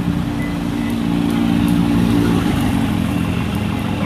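A vehicle engine running steadily close by, over constant street noise.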